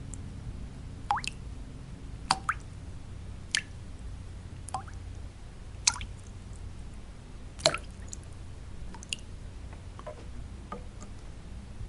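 Water drops falling one at a time into water, each a short plop with a quick rising pitch, about ten at irregular intervals of around a second. Under them runs a steady low white-noise bed.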